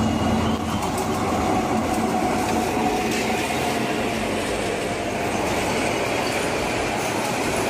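Diesel-hauled passenger train passing close by: the locomotive goes past, then a long line of coaches rolls by with steady, loud noise of wheels on the rails.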